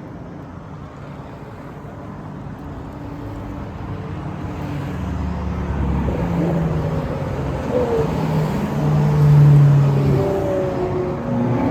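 Several Ferrari sports-car engines running together as the cars cruise past at parade pace. The sound grows steadily louder to a peak near the end, with more than one engine note at once and small shifts in pitch.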